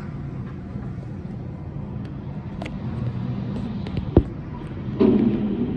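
Garbage truck's engine running with a steady low drone, a single sharp knock a little after four seconds in, and a louder, lower-pitched running sound from about five seconds in.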